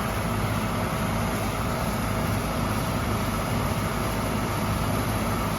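Steady machine hum of air-conditioning equipment running: a low drone under an even whir, with a faint thin high tone held throughout.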